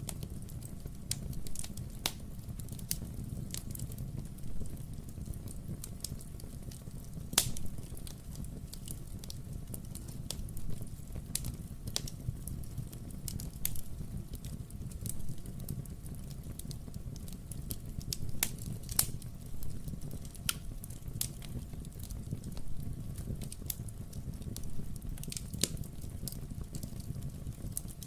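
Wood fire in a fireplace crackling, with irregular sharp pops and snaps from the burning logs over a low steady rumble of the flames.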